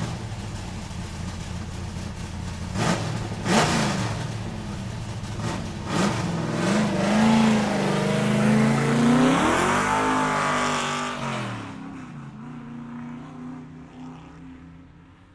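Car engine running steadily with a few sharp knocks about three seconds in, then revving up in a rising pitch and dropping back down to a lower idle that fades away.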